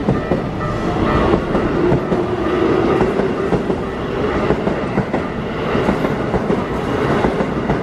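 Chiba New Town Railway 9100 series electric train passing close by, its wheels clattering steadily over the rail joints, with a hum underneath that dips a little in pitch partway through.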